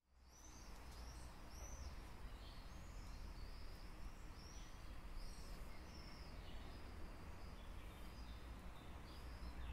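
Small birds chirping over and over in short, high, arched calls, faint over a steady low background rumble. The sound cuts out for an instant at the very start and fades back in.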